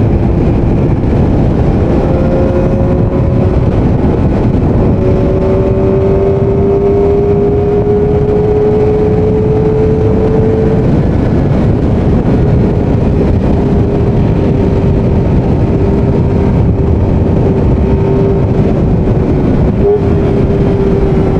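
Kawasaki Ninja ZX-25R's 250 cc inline-four running at high revs while cruising at highway speed, its note climbing slowly for about ten seconds, then dropping a little and holding steady. Heavy wind and road noise sit under the engine.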